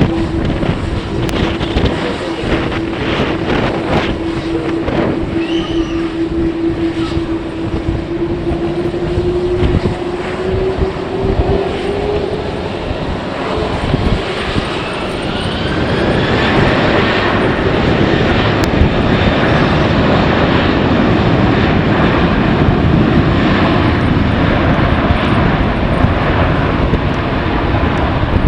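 Jet airliner engines heard on strong wind: a steady whine that slowly rises in pitch, then a higher rising whine, and from a little past halfway a loud, sustained broad roar. Gusts buffet the microphone throughout.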